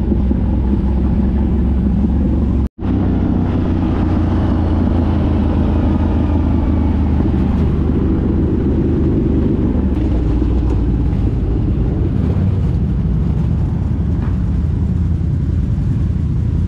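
ATV engine running steadily while riding an off-road trail, with the revs rising and falling partway through. The sound cuts out for an instant a little under three seconds in.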